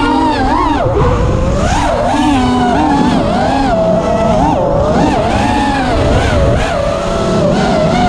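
FPV racing quadcopter motors whining, the pitch swinging up and down quickly and continuously as the throttle is worked.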